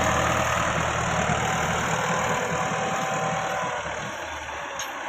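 Massey Ferguson 385 tractor's diesel engine running steadily at low revs; its low hum weakens about four seconds in.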